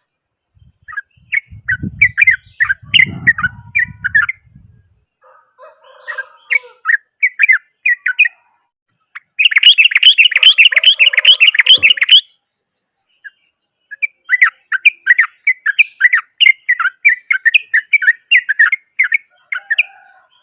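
Yellow-vented bulbul singing loud bursts of rapid chattering notes. Near the middle there is a dense, fast trill of about three seconds, the rapid 'ropel' song. A low rumble sits under the first burst.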